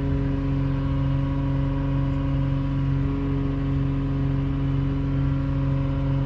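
An engine idling at a steady speed, an even hum that does not change.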